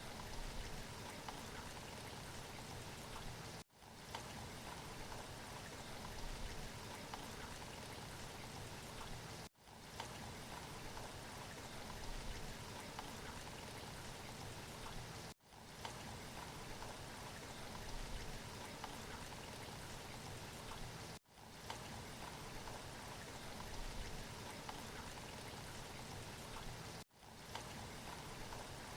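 Recorded rain falling steadily, faint, as an even hiss of drops. About every six seconds it drops out for an instant and fades back in, the seam of a short rain recording played on a loop.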